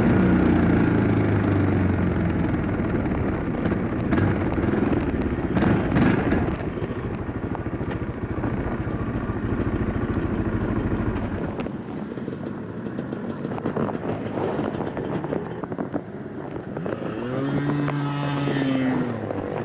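Dirt bike engine running under way, with a heavy rush of engine and wind noise that eases about halfway through. Near the end a clear engine note rises and falls.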